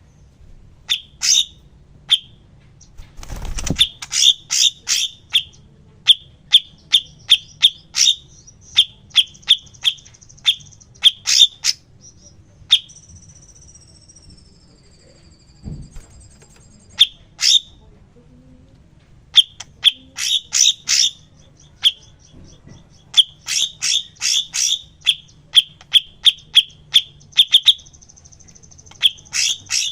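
Songbird singing in fast runs of short, sharp chip notes, with a thin high trill between runs and a falling whistle about halfway through. A single dull thump sounds about three and a half seconds in.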